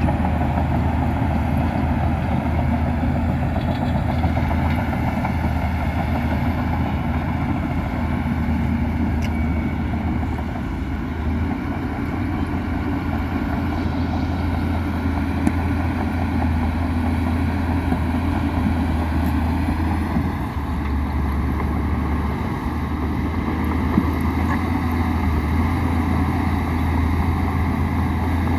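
Heavy earthmoving machine's diesel engine running steadily with a deep low hum, a few faint clicks over it.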